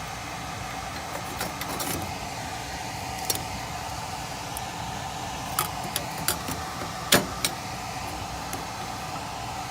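Steady even background hiss with a handful of sharp metallic clicks and clinks from handling wiring and parts at a furnace, the loudest about seven seconds in.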